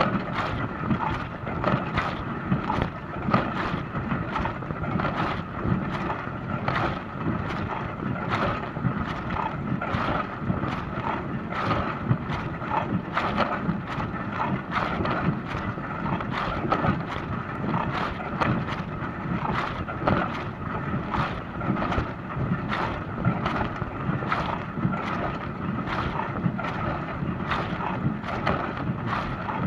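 Dishwasher running: a steady rush of spraying water with a faint steady hum, broken by frequent irregular splashes and knocks, a few a second.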